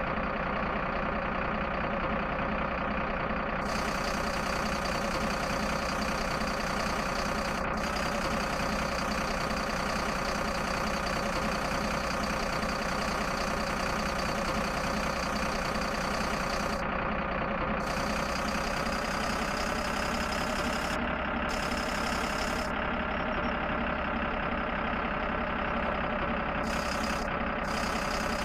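Tractor engine running steadily at idle, even in level throughout, with its pitch lifting slightly about two-thirds of the way through.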